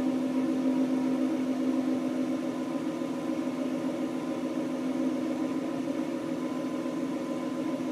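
2013 Roush RS Mustang engine idling steadily through its stock Ford exhaust, an even hum with no revving.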